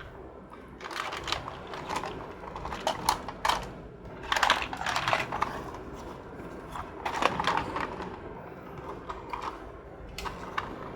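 Small plastic toy cars clicking and clattering in irregular bursts, loudest in a cluster about halfway through.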